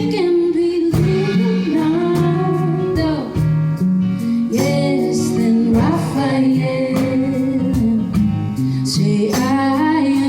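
Live pop song with a woman singing over instrumental backing.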